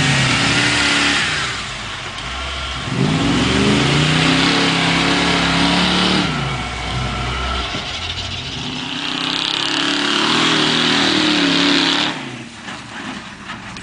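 Pickup truck engine revving hard in repeated surges, rising and falling in pitch several times, as the truck spins its wheels through mud. The hiss of mud and tyre spray runs with it, and the engine eases off about twelve seconds in.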